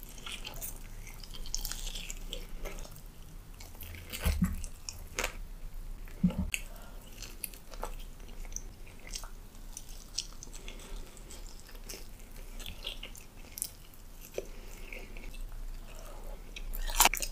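Close-miked chewing and biting of breaded fried chicken: wet mouth sounds and crunching of the crust, broken by sharp clicks and smacks, with a louder one near the end.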